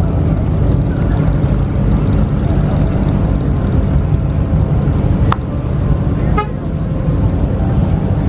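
Car engine and exhaust running with a low, steady rumble. A short sharp tone cuts in briefly about five seconds in.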